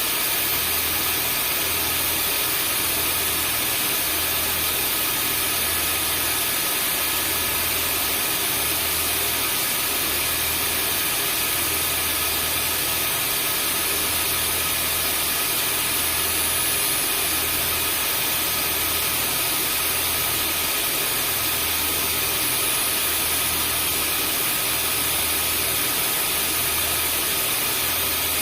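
Vacuum cleaner running continuously: an even, steady rush of noise with several high whining tones over it, and a low hum underneath that swells and fades about every second and a half.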